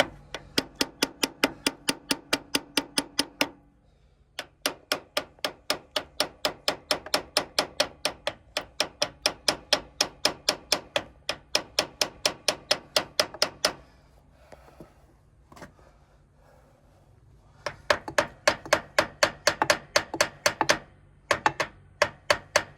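Hammer striking metal on a truck's wheel hub, in quick steady runs of about five blows a second, each blow ringing. The runs break off briefly about four seconds in, again around fourteen seconds for several seconds, and once more near the end.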